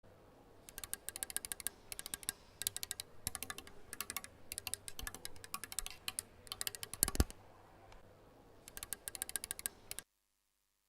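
Typing: rapid clicks in short runs of about a second with pauses between them, and one heavier knock about seven seconds in. The sound cuts off suddenly about ten seconds in.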